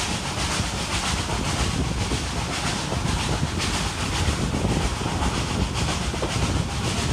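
Hunslet Austerity 0-6-0 saddle-tank steam locomotive working a train, its exhaust chuffing in a steady, even rhythm over the constant low rumble of the train on the rails.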